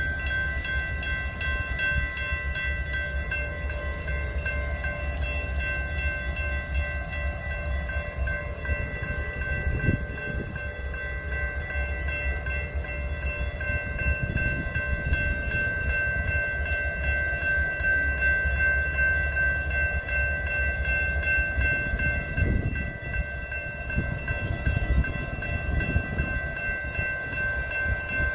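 Train rumbling past, with a steady high-pitched ringing tone of several notes held over it throughout.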